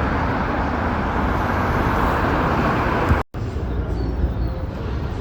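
City street traffic noise: a steady rush of passing cars. The sound drops out for an instant about three seconds in, then carries on a little quieter.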